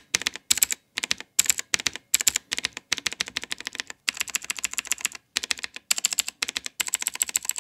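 Fast typing on a mechanical keyboard with clicky blue switches: rapid runs of sharp key clicks in bursts, broken by short pauses.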